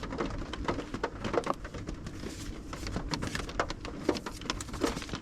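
Paper and plastic sticker sheets being handled and shuffled: an irregular run of light rustles, clicks and taps.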